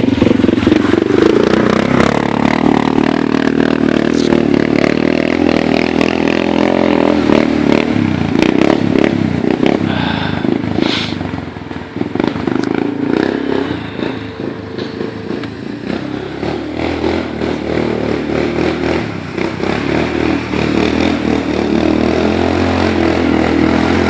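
Yamaha Wolverine 450 4x4 ATV's single-cylinder engine running under load as it is driven through a trail puddle. The engine is steady at first, eases off and wavers about halfway through, then picks up again.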